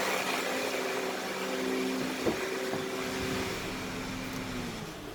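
A 2010 Honda Odyssey's power steering pump whines steadily over the idling engine, a noise the owner puts down to the pump and not the AC. A single click comes about two seconds in. Near the end the whine sinks and dies away, with the AC switched off.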